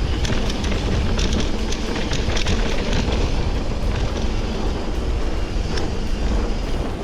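Wind rumbling on the microphone and road noise from a moving bicycle, with scattered light rattling clicks, most of them in the first few seconds.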